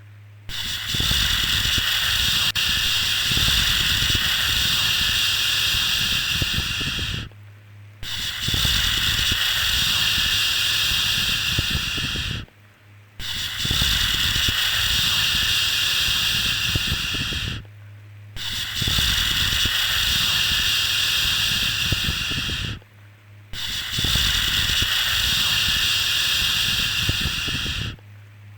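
A steady 'shhh' shushing sound for soothing a baby to sleep, repeated in long shushes of about five seconds each with a short break between them, five in all.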